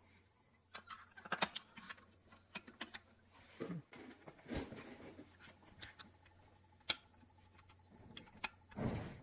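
Scattered light metallic clicks and clinks of thin metal barrel shims being handled and fitted on an air-cooled engine, with a few softer rustles in between.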